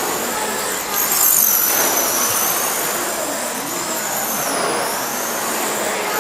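Several radio-controlled stock trucks racing, their motors making a high-pitched whine that rises and falls in pitch as they accelerate and slow around the track.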